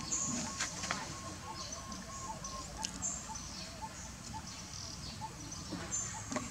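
Outdoor bird calls: a steady run of short, evenly repeated notes, about three a second, with higher chirps over them and a few sharp clicks.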